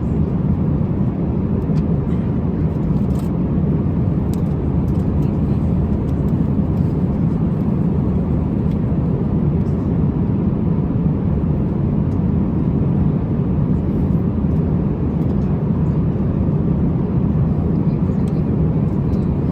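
Steady low roar of an airliner: engine and airflow noise without change.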